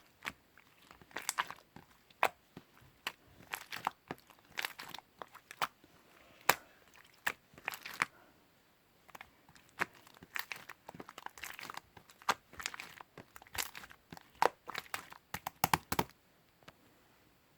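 Slime being squeezed and worked by hand: an irregular run of sharp crackling pops and crinkles, which stops about 16 seconds in.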